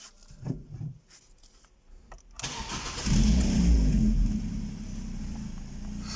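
Ford Focus II 1.8 petrol inline-four (QQDB) being started: after a few faint clicks, the starter cranks briefly about two and a half seconds in, the engine catches and flares up in revs, then settles into a steady idle.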